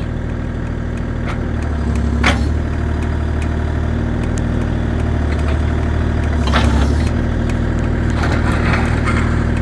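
Bobcat E35 mini excavator's diesel engine running steadily while it works. Two sharp knocks, about two seconds in and again about six and a half seconds in.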